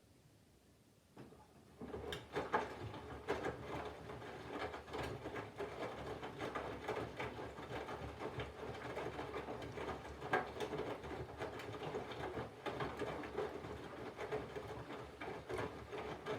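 Candy GVF4 137 front-loading washing machine's drum starting to turn after a pause, about a second and a half in: a steady motor hum with irregular clicking and rattling as the wet load tumbles, during the water-heating phase of the Colours 40° wash.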